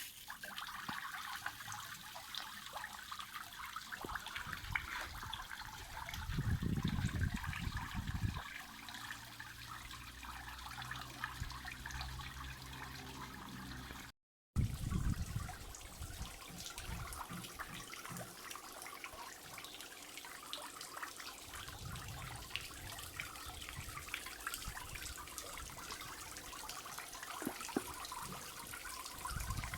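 Small garden pond waterfall trickling and splashing steadily. A low rumble comes in about six seconds in for a couple of seconds, and the sound drops out for a moment about halfway through.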